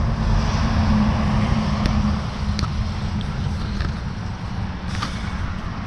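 Low, steady rumble of motor vehicle engines, with a steady hum in the first two seconds and a few faint knocks.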